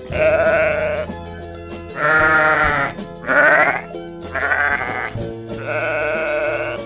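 Sheep bleating about five times in a row, each call quavering, over background music.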